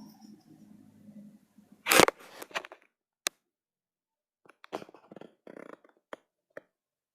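A loud sharp knock about two seconds in, followed by scattered clicks and short rustling handling noises, then the sound cuts off to silence.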